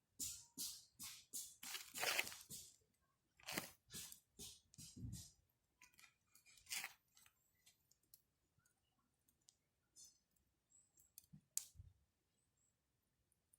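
Campfire crackling: burning wood snapping and popping, a quick run of cracks in the first few seconds, then scattered single pops.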